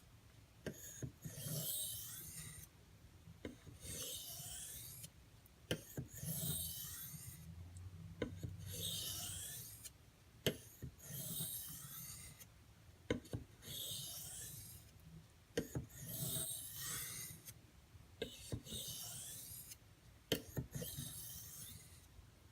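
D2 steel knife blade stroked across a 6000-grit Arkansas water stone with a very light touch: a series of about nine smooth, hissy scraping passes, one roughly every two and a half seconds, with small clicks of the blade between strokes.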